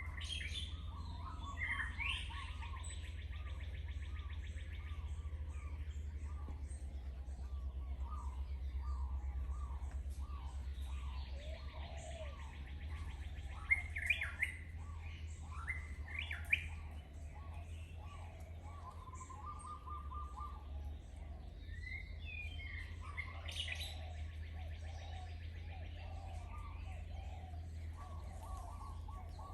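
Several wild birds chirping, calling and trilling on and off, with a few louder sharp calls about halfway through, over a steady low rumble.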